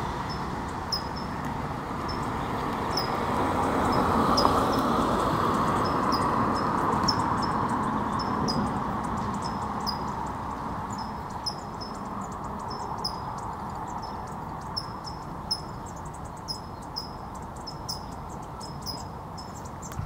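A small bird gives short, high call notes, about one a second at first and more often later on. Under it runs a rushing background noise that swells over the first few seconds and then eases off.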